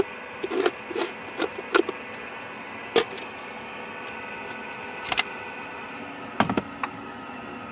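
A series of short, light knocks and clacks, as of hard objects being handled and set down, several in quick succession at first, then a few more spaced out, over a steady low hum.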